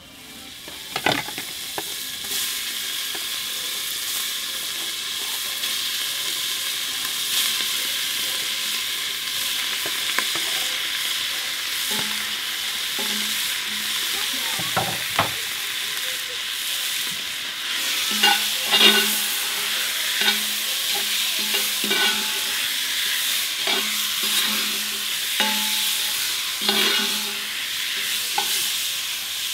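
Diced beef and chopped onion sizzling as they fry in a cast-iron pot, with a metal spoon clinking against the pot as it is stirred. The clinks come more often in the second half.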